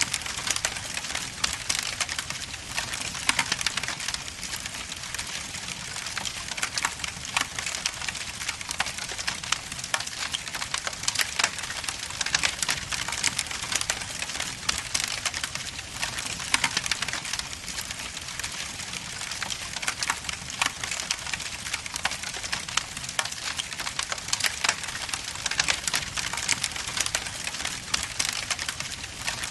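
Log fire burning in a fireplace, crackling steadily with a constant hiss and many quick pops and snaps of burning wood.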